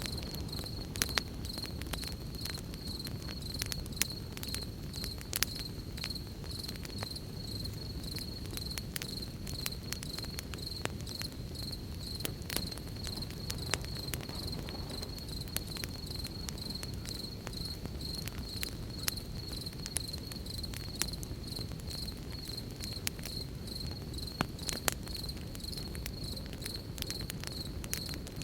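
Campfire crackling, with sharp irregular pops over a low steady hiss from the burning wood. Evening insects chirp steadily in a high pulsing tone throughout.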